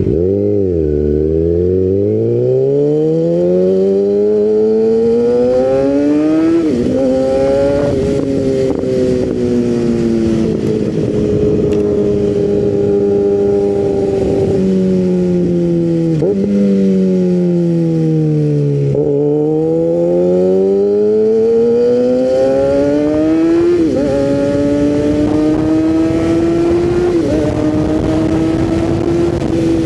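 600cc inline-four sport bike engine under way, its pitch climbing through the gears with a quick drop at each upshift a few seconds in. Midway it eases off and slows, with short blips on the downshifts, then pulls hard again, upshifting twice near the end.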